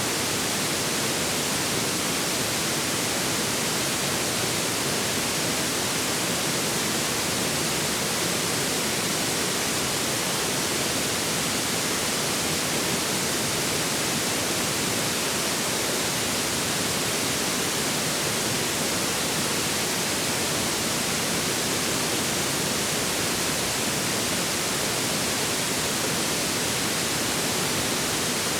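Forest river water rushing steadily: an even, unbroken hiss with no distinct splashes or breaks.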